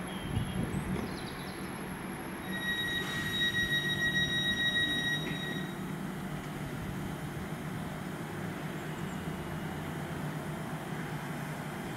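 Class 321 electric multiple unit braking to a stop, with a steady high-pitched squeal for about three seconds from a few seconds in, then a steady low hum as it stands.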